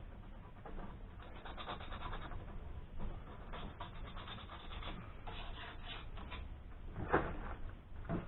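Rust being scrubbed off a steel steering rack: runs of quick scraping strokes, with one sharp knock about seven seconds in.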